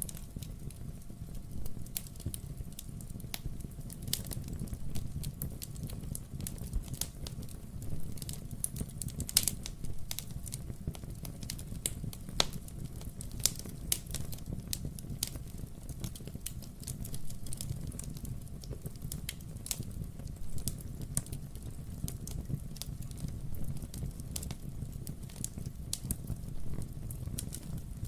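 Wood fire burning in a fireplace: a steady low rumble with frequent sharp crackles and pops of burning logs, a few pops louder than the rest.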